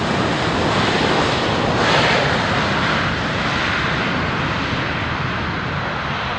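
Jet airliner passing close by, its engine noise swelling to a peak about two seconds in and then slowly fading.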